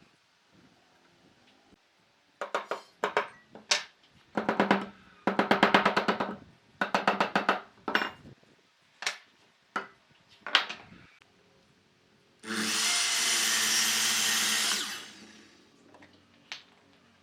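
A power tool worked in a string of short bursts, each a fast rattling run of blows, then a motor running steadily for about two and a half seconds.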